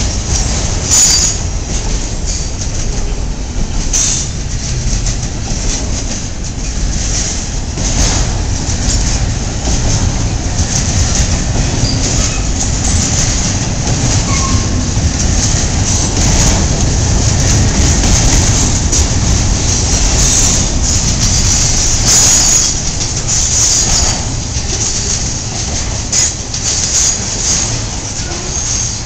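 Freight train's autorack and double-stack intermodal cars rolling past close by: a steady rumble of steel wheels on rail, with repeated clicks over the rail joints and a high-pitched wheel squeal at times.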